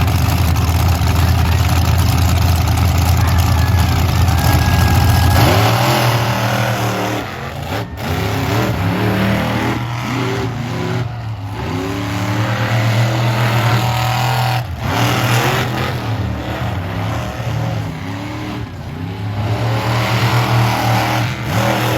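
Large monster truck engine running loud and steady, then revved hard again and again from about six seconds in, its pitch repeatedly climbing and falling.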